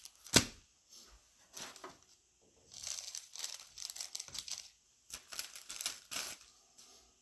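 Plastic wrapping crinkling and tearing in irregular bursts, with one sharp snap about half a second in, typical of trading-card packs or box shrink-wrap being torn open.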